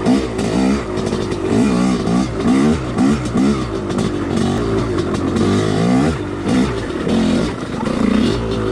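Two-stroke dirt bike engine revving up and down over and over, the throttle worked on and off about twice a second while riding a trail.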